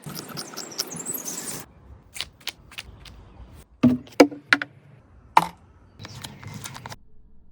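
Workshop handling noises on metal: a rough scrape, then light clicks and several sharp clanks, two of them ringing briefly, with a softer rustle near the end.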